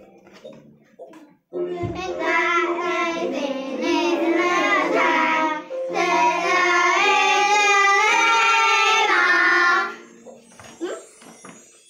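Children singing a song over musical accompaniment. The singing comes in about a second and a half in and stops suddenly near the end, leaving only faint scattered sounds.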